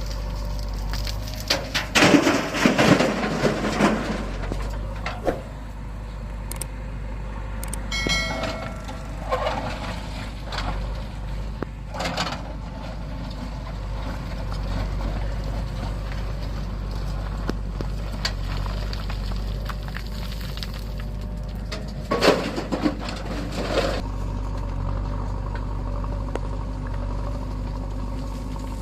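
Heavy diesel machinery engine running steadily, with louder noisy surges about two to four seconds in and again around twenty-two seconds in, and a short pitched sound about eight seconds in.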